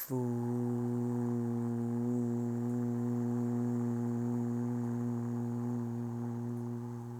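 Qigong kidney healing sound: a breathy 'f' onset, then a long, low 'fooo' voiced on one steady pitch for about seven seconds as a single drawn-out exhalation.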